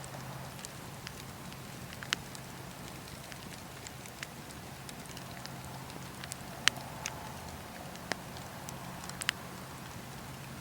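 Campfire crackling: burning wood with a steady low hiss and scattered sharp pops, the loudest about two, six and a half, eight and nine seconds in.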